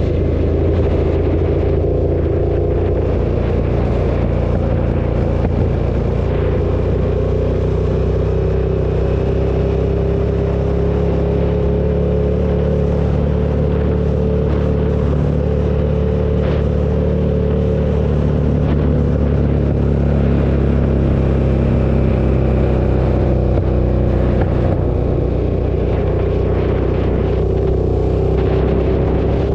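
KTM 1290 Super Duke's V-twin engine running steadily at cruising speed under the rider, its pitch drifting gently up and down with the throttle.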